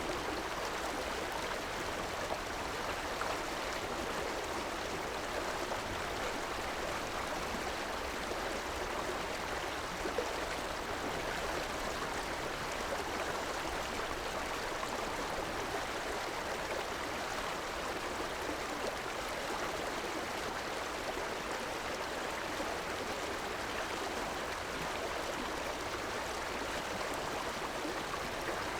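River water running steadily over rocks, a continuous even rush.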